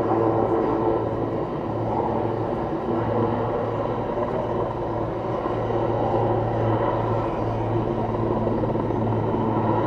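Airbus H215 Super Puma helicopter in flight: its main rotor and twin turbine engines run loud and steady, with a constant low hum beneath.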